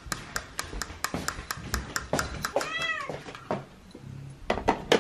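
A domestic cat meows once, about three seconds in, over a quick run of light clicks or taps at about five a second, with a few louder knocks near the end.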